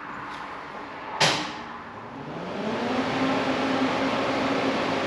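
A sharp click, then an electric motor spins up, its pitch rising for about a second before settling into a steady hum.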